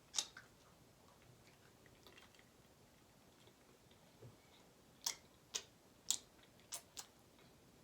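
A person chewing food close to the microphone: a sharp wet mouth click at the start, a quiet stretch, then a quick run of five or six smacking clicks about five seconds in.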